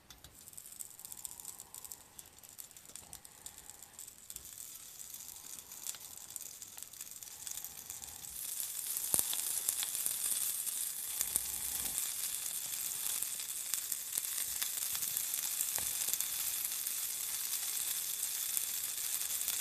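Nori-wrapped chicken karaage patties sizzling on an electric hot plate as pieces are set down. The sizzle grows as more pieces go on and jumps louder about eight seconds in, with a few faint clicks along the way.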